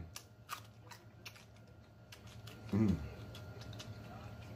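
Close-miked eating sounds: scattered wet clicks and smacks of a mouth chewing food. A short low "mm" from a man's voice, falling in pitch, comes a little past halfway.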